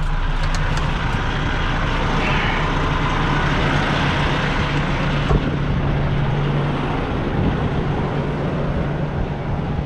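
Semi truck's diesel engine running steadily, heard from the cab, with one short knock about five seconds in.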